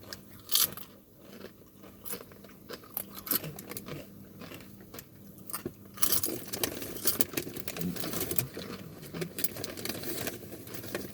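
Crunchy food being bitten and chewed close to the microphone, a run of irregular crackly crunches that get denser and louder about halfway through.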